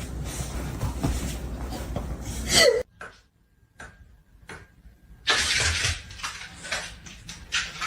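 A dog gives one loud bark that falls in pitch, over a steady low rumble. After it come a few faint clicks and then a run of short hissing bursts.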